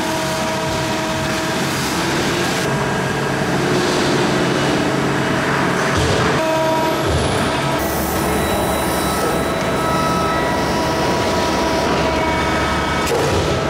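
Maru Kikai 300-ton press brake and shop machinery running: a steady mechanical din with faint held hum tones, shifting slightly about six and eight seconds in.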